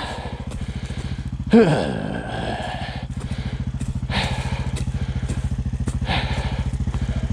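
Honda sport quad's single-cylinder four-stroke engine idling steadily with an even pulse. A short, loud voice sound with falling pitch cuts in about a second and a half in.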